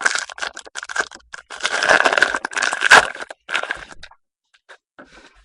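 A foil trading-card pack wrapper being torn open and crinkled, a dense run of crackling with a sharp snap about three seconds in, then a few faint ticks.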